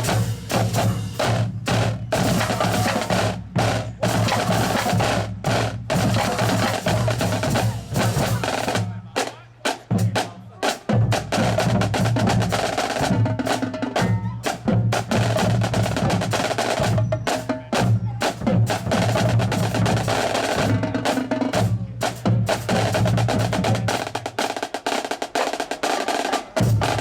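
Marching band drumline playing a rhythmic drum cadence of rapid strokes, with the low drums dropping out briefly twice.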